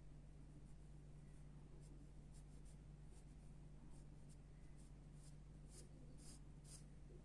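Faint pencil strokes scratching on paper, a series of short strokes that grow stronger over the last couple of seconds, over a low steady hum.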